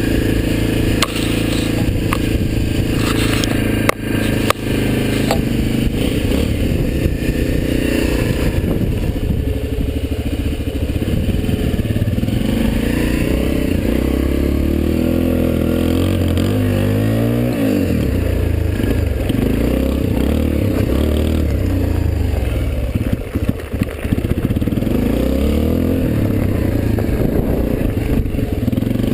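Suzuki DR-Z125L dirt bike's single-cylinder four-stroke engine running under way, its pitch rising and falling with the throttle. Several sharp knocks and some rattling come in the opening seconds.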